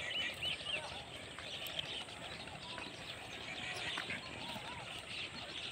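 Small birds chirping: a quick run of short, arched chirps in the first second, then scattered calls, over a steady background hiss.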